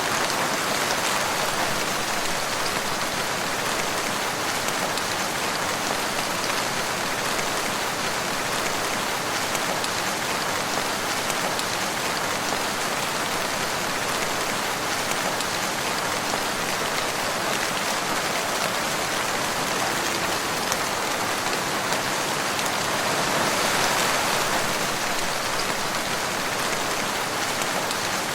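Steady rain falling in woodland, an even hiss of drops with a slight swell near the end.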